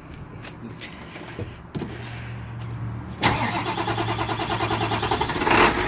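A few clicks, then the 1999 Ford F-450 crane truck's engine is cranked. It catches about three seconds in and settles into a steady, pulsing run, with a brief louder surge near the end.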